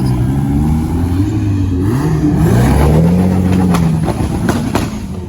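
Car engine revving: its pitch climbs about two seconds in, holds briefly, then drops back. Several sharp clicks or pops come near the end.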